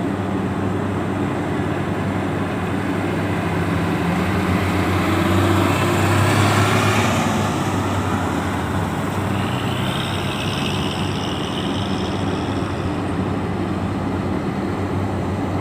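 Diesel truck engines running as heavy trucks drive past, one growing louder about six seconds in as it goes by, with a brief high-pitched squeal around ten seconds in.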